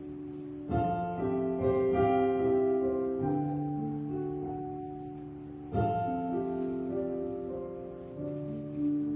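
Slow, sustained piano music: chords struck about a second in and again near the middle of the clip, each left to ring out and fade, with a softer chord near the end.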